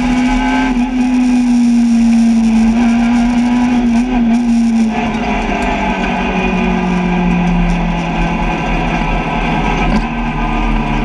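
Peugeot 106 rally car's engine heard from inside the cabin, running at steady high revs with road noise. About five seconds in the engine note drops to a lower steady pitch.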